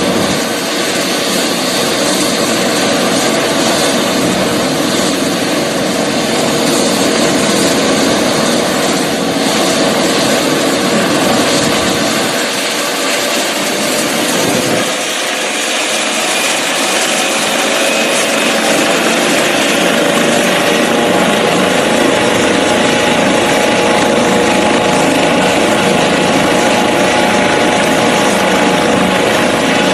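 Medical helicopter's turbine engines and rotor running steadily, with a high whine that slowly rises in pitch from about halfway through.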